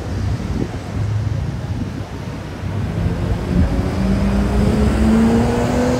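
Road traffic: a motor vehicle's engine accelerating on the street, its pitch rising slowly over the last few seconds, over a steady low rumble.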